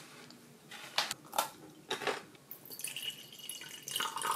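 Crunchy snack being chewed, with several crisp crunches in the first couple of seconds. Then comes a fainter sound of liquid trickling into a glass.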